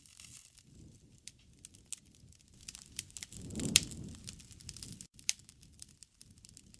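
Wood campfire crackling and popping over the low rumble of the flames, with a swell of the flames and one loud sharp pop about halfway through.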